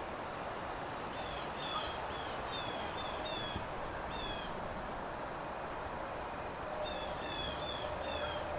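A bird calling in two runs of short, high chirps, over a steady outdoor hiss.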